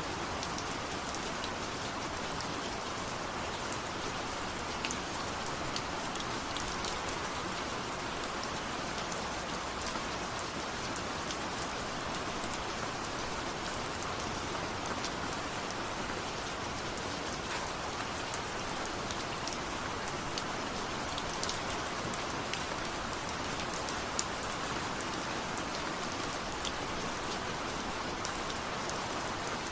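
Steady rain falling, a dense even patter with many small individual drops ticking on a hard surface.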